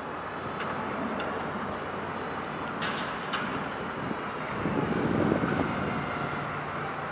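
Steady rumble of distant traffic. Two sharp clicks come about three seconds in, and the rumble swells briefly a little past the middle.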